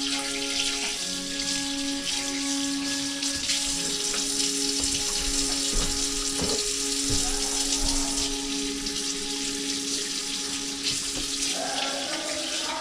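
Tap water running steadily into a sink, with music of held notes playing underneath.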